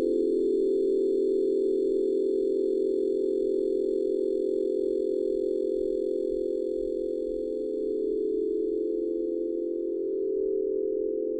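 A steady drone of several held tones close together in pitch, in a low-middle range, beating slowly against one another. Faint high overtones fade out near the end.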